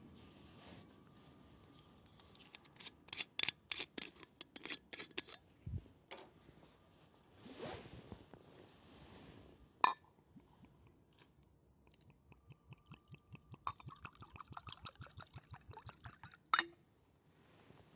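Food being cut and handled for a stew: a quick run of cutting strokes, a brief scraping swish and a sharp knock, then a steady run of chopping at about five strokes a second.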